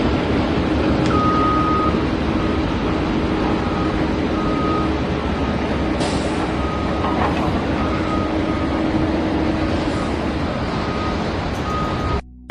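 A motor vehicle's engine running steadily while a reversing beeper sounds about once a second. The sound cuts out briefly near the end.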